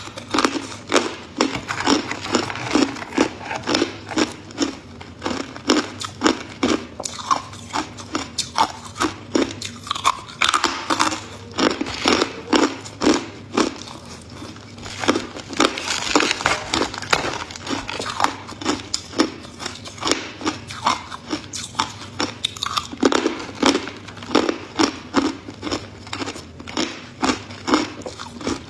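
A person biting and chewing hard ice close to the microphone: repeated sharp crunches, about one or two a second, with a denser burst of grinding crunches in the middle.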